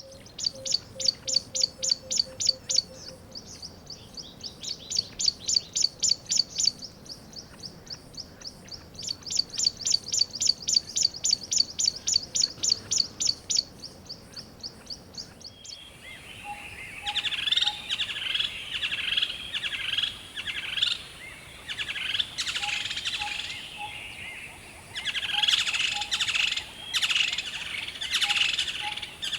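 Birds calling: one bird repeats fast, high chirps, several a second, in runs of a few seconds; about halfway through the sound changes abruptly to a denser chorus of lower, warbling bird calls.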